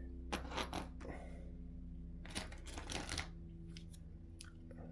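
Scattered small clicks and taps of hand tools and parts being handled while working on an RC car's suspension: a few in the first second, a cluster around two and a half to three seconds in, and light ticks near the end, over a faint steady hum.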